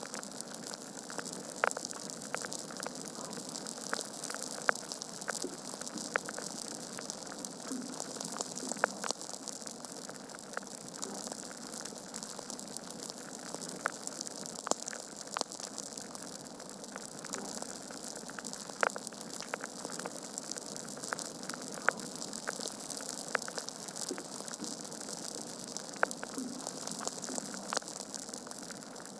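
Wood fire burning in a fireplace: a steady hiss with frequent sharp, irregular crackles and pops from the logs.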